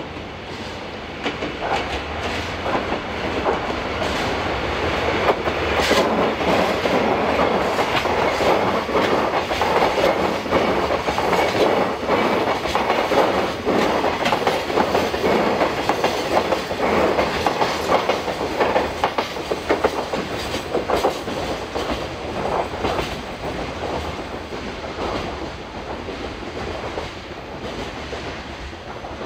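Freight train hauled by a DD51 diesel locomotive passing by, its wagons' wheels clicking steadily over the rail joints. The sound swells over the first few seconds, stays loud through the middle and eases off toward the end.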